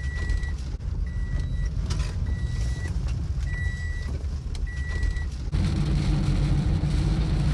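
Drone remote controller beeping, about one short high beep a second, over a steady low roar of wind from the tornado. The beeps stop about five seconds in, and the low roar then grows louder, with a steady hum in it.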